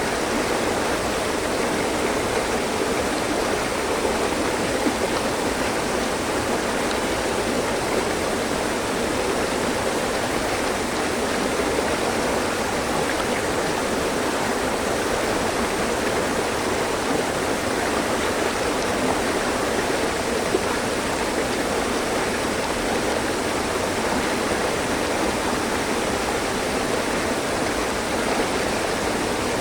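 Mountain stream flowing over rocks: a steady, even rush and babble of water.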